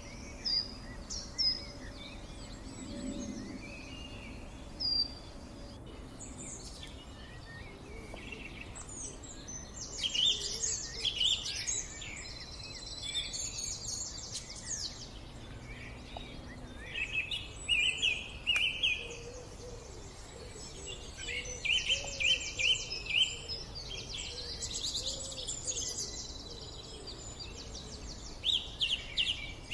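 Birds singing and calling. A string of short falling whistles comes in the first few seconds, followed by repeated bursts of rapid chirps and trills.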